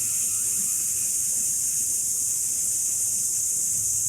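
A person exhaling the long, steady 'sssss' lung sound of the Taoist Six Healing Sounds, a hiss through the teeth held as one unbroken breath.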